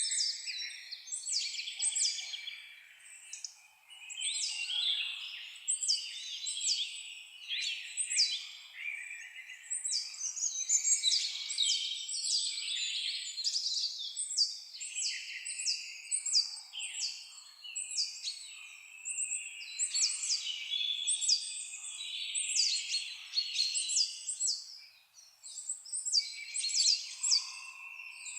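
Several songbirds singing and chirping at once, a dense chorus of quick high notes and short downward-sweeping calls, with brief lulls around four seconds in and near the end.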